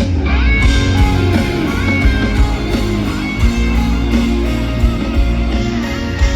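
Band music with guitar to the fore over bass and a steady beat, an instrumental introduction before the vocal comes in.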